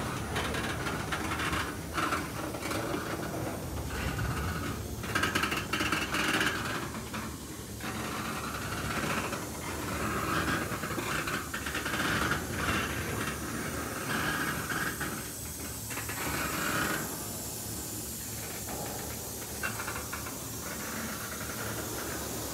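Loaded freight cars, black tank cars and a covered hopper, rolling past at track level. Their steel wheels rumble and click over the rail joints, with a rushing hiss that rises and falls.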